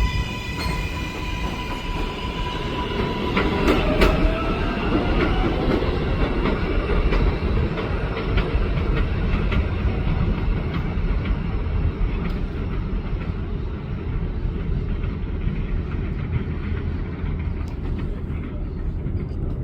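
An NYC subway 7 train of R188 cars moving along the elevated track. The motors' electronic whine holds one steady pitch for the first few seconds and fades out about four seconds in. After that the wheels rumble and clack over the rail joints.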